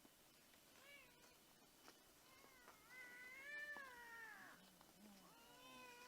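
A cat meowing quietly three times: a short meow about a second in, a long drawn-out meow that rises and then falls in pitch, and another long meow near the end.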